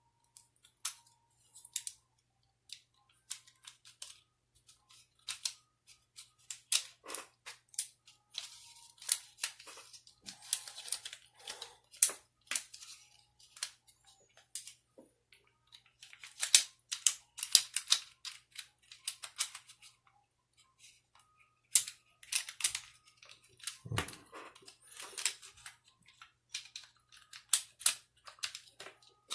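Irregular small plastic clicks, taps and light scrapes as the plastic housing and rotor wheel of a Toyota clock spring are handled and turned into line with their alignment marks.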